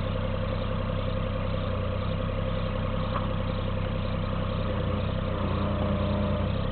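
Cat 302.5 mini excavator's diesel engine running steadily while being operated, getting a little louder with an added low hum for about a second near the end as the hydraulics take load.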